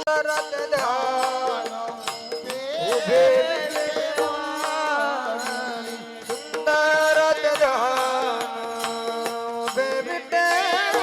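A male voice singing a devotional bhajan melody in drawn-out, ornamented vowels over a steady held drone, with light percussion ticking in time. The voice breaks off about six seconds in and starts a new phrase shortly after.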